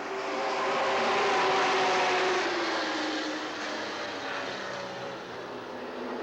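A pack of racing pickup trucks accelerating past under full throttle at the green-flag start. The engines swell to their loudest about a second and a half in, then fade with a falling pitch as the field goes by.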